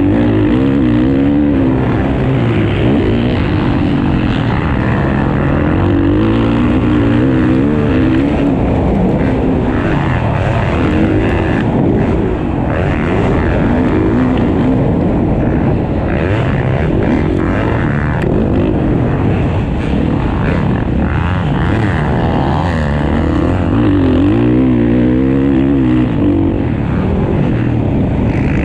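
Motocross dirt bike engines racing, their pitch rising and falling over and over as the riders work the throttle around the track.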